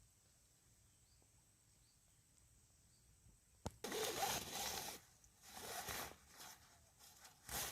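A near-silent lull, then a sharp click a little before four seconds in, followed by three bursts of rustling, the first about a second long and the last near the end.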